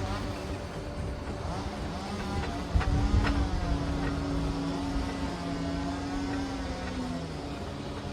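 Liebherr PR 746 crawler dozer's diesel engine running steadily, with a heavy low thud about three seconds in and the engine note dropping slightly near the end.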